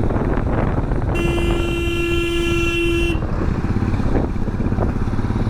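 A vehicle horn sounds one steady blast of about two seconds, beginning about a second in. Under it, a motorcycle engine runs continuously with road noise.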